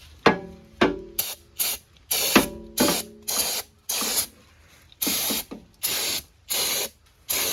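Aerosol parts cleaner sprayed in about ten short hissing bursts, cleaning old grease and oil off the engine. A few sharp metallic clinks come in the first few seconds.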